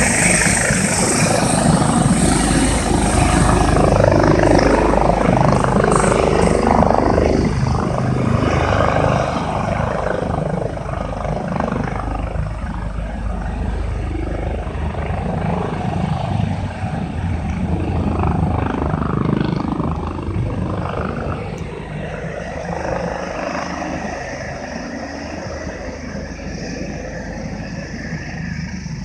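Air ambulance helicopter's rotors and turbine engine running steadily, slowly growing fainter.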